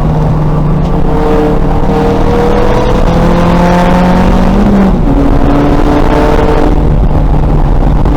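2000 VW Golf race car's engine pulling hard under acceleration, its pitch climbing steadily, with an upshift about five seconds in that drops the revs abruptly before they climb again.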